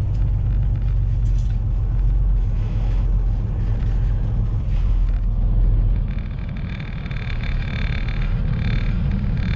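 Semi truck's diesel engine and road noise from inside the cab: a steady low rumble. About six seconds in, it eases slightly and a higher hiss comes in.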